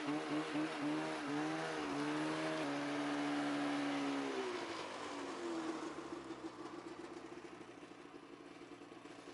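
Snowmobile engine running with its pitch rising and falling, then easing down to a quieter, steady idle about five seconds in.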